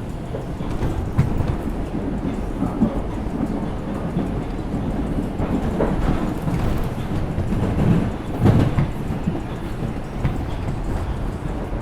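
Inside an R142 subway car running at speed: a steady rumble of wheels on rails, with occasional knocks as the wheels cross rail joints. The loudest knock comes about two-thirds of the way in.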